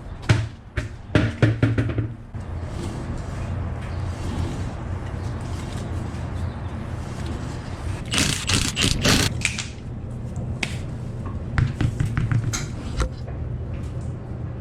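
Clicks and metallic knocks of hand tools being worked on a car, in short clusters near the start, in the middle and near the end, over a steady low hum.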